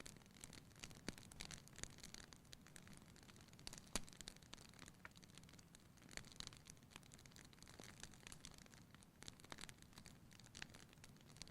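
Faint wood fire crackling in a fireplace: irregular small pops and snaps over a soft hiss, with one sharper pop about four seconds in.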